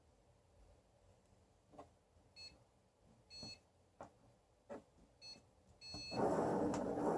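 Excalibur Mirage chess computer: a few soft clicks and four short electronic beeps in two pairs, then about six seconds in its robotic mechanism starts up with a loud whirring as the motors drive the electromagnetic head across the board.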